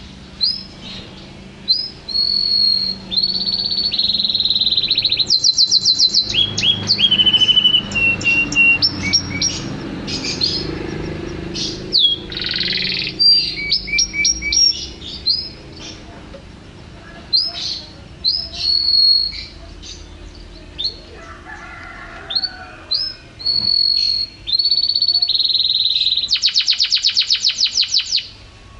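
Canary singing: a song of high whistled notes, downward-sliding phrases and fast rattling trills, with a long rapid trill near the end.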